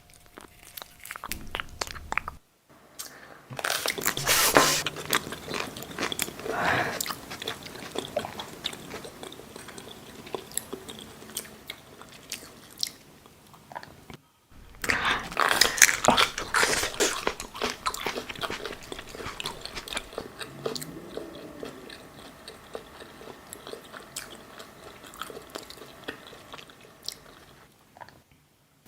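Close-miked ASMR eating sounds: bites and crunchy chewing. The sound comes in two stretches split by abrupt edit cuts, with the loudest crunches right after each cut.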